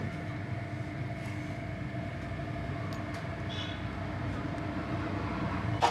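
Steady hiss and hum of compressed air being blown to clean engine parts.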